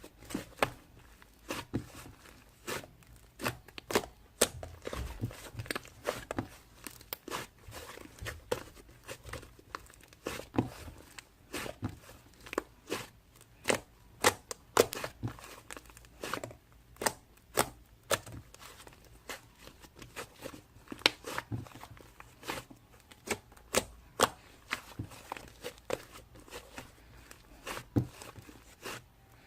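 Slime being kneaded, stretched and pressed by hand, giving irregular sharp clicks and pops, a few a second.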